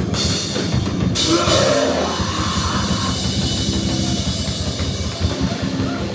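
Live rock band playing loud, heavy music with a drum kit; a wash of cymbals swells about a second in and fades out over the next couple of seconds.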